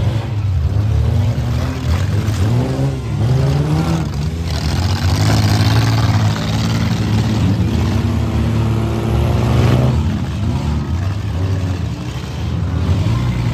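Several demolition derby cars' engines revving hard at once, their pitch climbing and falling over and over as the cars push and ram through the mud.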